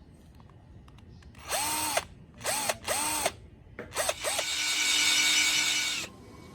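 Power drill run in short trigger bursts, the motor whining up to speed and winding down each time. After several quick bursts it runs steadily for about a second and a half near the end.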